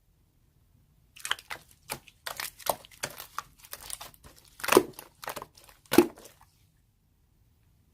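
Slime being squeezed and pressed by hand, giving a run of crackling, popping clicks for about five seconds, the two loudest pops coming late in the run.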